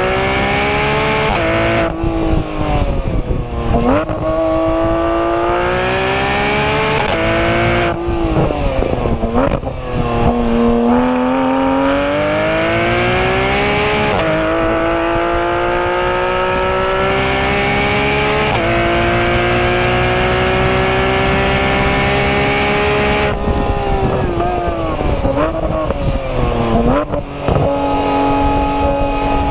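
Porsche 991 GT3 RS flat-six engine and exhaust being driven hard on track. Its pitch climbs steadily under full throttle through long pulls, then drops several times, with short sharp spikes in revs between the drops.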